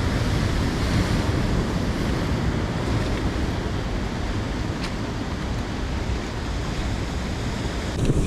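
Rough ocean surf washing against the shore, with wind rumbling on the microphone.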